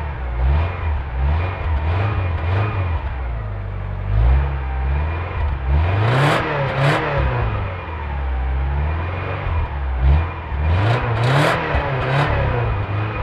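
Subaru Impreza 2.0 turbo flat-four engine revving again and again, its pitch climbing and dropping every second or two. Short sharp hissing bursts come twice, about six and eleven seconds in.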